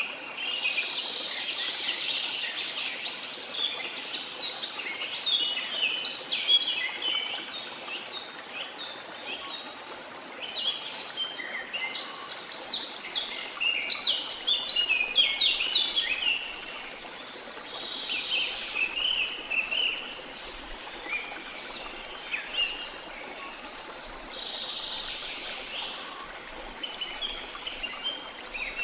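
A chorus of birds chirping and singing in quick, dense runs of short notes that come in waves, thinning out for a few seconds now and then, over a steady hiss of running water.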